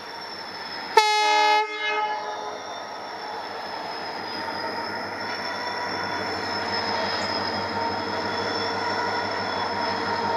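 WDG4D diesel locomotive sounding a short horn blast about a second in, then running with a steady mechanical hum and a high whine that slowly grows louder.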